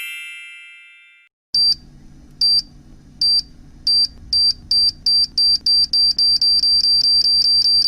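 A high-pitched electronic beep of a bomb-timer sound effect, repeating and speeding up from about one beep a second to a rapid string of beeps, over a low steady hum; it counts down to an explosion. In the first second the tail of a chime rings out and fades.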